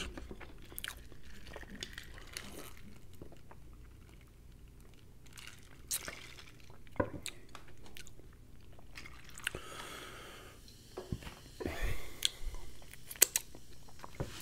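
A person chewing food close to a sensitive microphone, with scattered wet mouth clicks; the clicks and bites come more often in the last few seconds.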